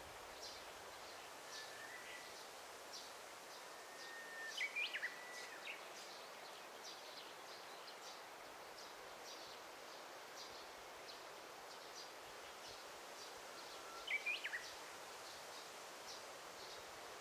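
Forest ambience: a songbird sings three times, each phrase a held whistle breaking into quick higher notes, over a steady soft hiss and a run of short high chirps about twice a second.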